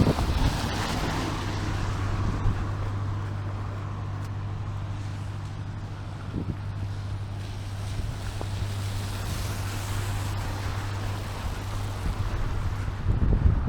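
A steady low engine hum, as from an idling or passing motor vehicle, with wind buffeting the microphone, the gusts strongest at the start and near the end.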